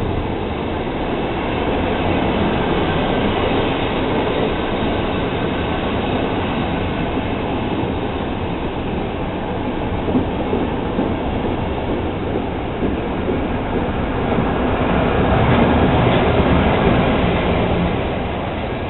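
Passenger train being shunted by an SM42 diesel shunting locomotive: a steady rumble of the coaches rolling on the rails. It grows louder about 15 seconds in, then eases off.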